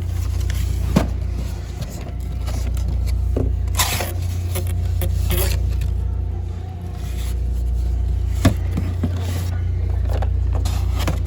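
Steady low rumble of an idling car heard from inside the cabin, with scattered scrapes, rustles and sharp clicks as boxed Hot Wheels monster trucks are handled.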